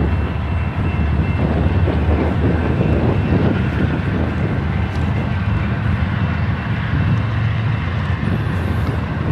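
Freight train rolling past, a steady loud rumble of wheels and cars on the rails.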